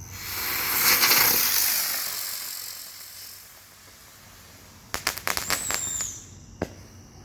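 Buzzard Bomb helicopter firework spinning up with a rushing hiss that peaks about a second in and fades over the next couple of seconds, then a quick run of crackling pops about five seconds in and one last pop a moment later.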